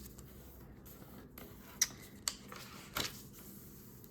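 Sheet of A4 paper being handled and folded by hand: a faint rustle with three short, sharp crinkles as it is pressed and creased.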